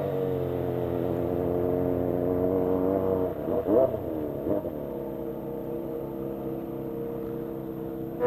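Motorcycle engine running under way. Its pitch climbs slowly, then dips and picks up twice in quick succession about halfway through, like gear changes, and settles to a steadier, lower note.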